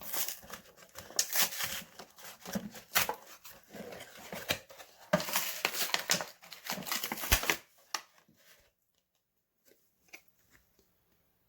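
Packaging of an action figure being handled, crinkling and rustling in irregular bursts for about eight seconds, then only a few faint clicks.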